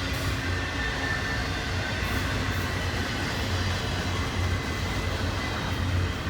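Double-stack intermodal freight train rolling past: a steady rumble of wheels on rail, with a faint high-pitched squeal from the wheels.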